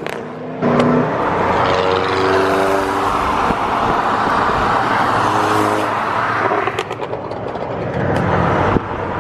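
A car engine revving hard as the car accelerates, its pitch climbing in steps, then sharp exhaust pops near the end, which are Volkswagen backfires.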